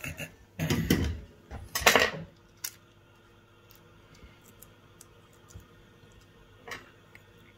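Small metal tools clattering and rattling on a workbench, in two loud bursts within the first two seconds, followed by a few faint clicks.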